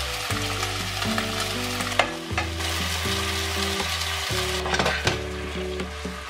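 Chicken tsukune patties and leeks sizzling in a hot frying pan as a sauce of sake, sugar, mirin and soy sauce goes in, the sizzle strongest in the middle. There is a sharp tap of a utensil or container about two seconds in.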